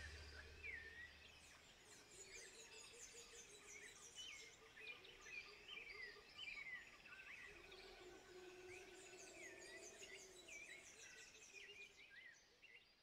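Faint outdoor ambience with small birds chirping repeatedly in the background.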